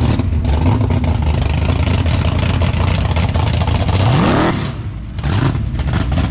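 Car engine running with a light throttle blip about a second in, then a sharp rev rising in pitch about four seconds in that drops off suddenly.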